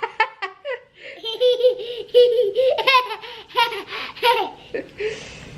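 Young child laughing: a long run of rapid, high-pitched giggles that starts about a second in and dies away near the end.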